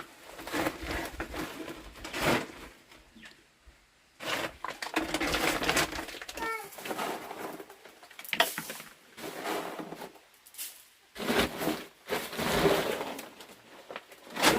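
Poultry calling in short chirps, amid irregular rustling and knocking noises.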